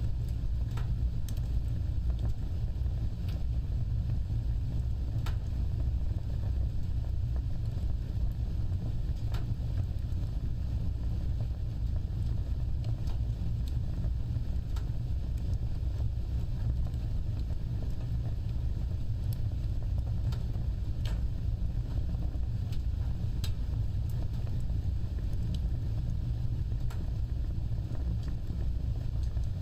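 Wood fire burning: a steady low roar of flames with sharp crackles and pops at irregular intervals.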